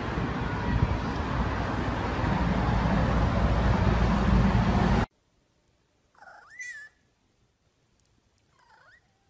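A steady rushing noise that cuts off suddenly about five seconds in, then a domestic cat meowing twice: one call rising and falling in pitch, then a fainter one near the end.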